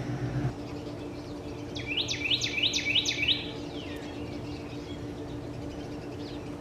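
A songbird singing a quick run of about six repeated down-slurred notes, about two seconds in, over a steady low hum.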